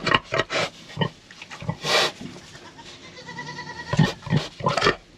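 Sow grunting in a run of quick short grunts, with a breathy snort about two seconds in and more short grunts near the end.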